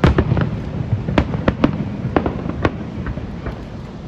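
Fireworks display: a rapid series of sharp cracks and bangs from aerial shells, about a dozen in four seconds, over a continuous low rumble of booms. The loudest cluster comes right at the start.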